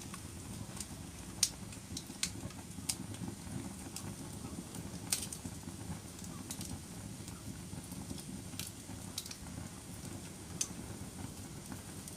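Wood fire burning in a fireplace: a steady low rush of flames with about a dozen sharp crackling pops at irregular intervals.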